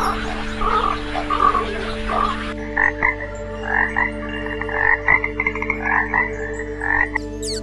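A water frog croaking in a quick run of short, repeated calls, starting about two and a half seconds in after a hissier stretch of softer calls. A steady low hum runs underneath.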